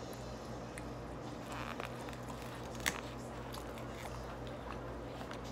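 Close-up chewing of a mouthful of beef and rice, with small wet mouth clicks, over a steady low hum. One sharp click comes about three seconds in.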